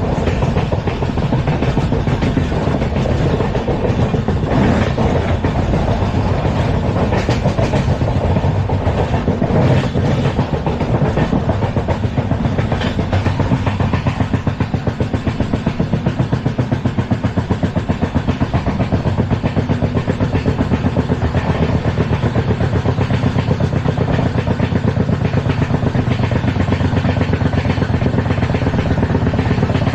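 LHB passenger coaches running at speed over the track, heard from on board: a loud, steady rumble of wheels on rail with a fast, even pulsing.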